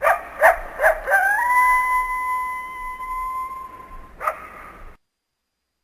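Coyote calling: three quick yips, then a long howl that slides up and holds one steady pitch for about three seconds, and a single short yip before it stops.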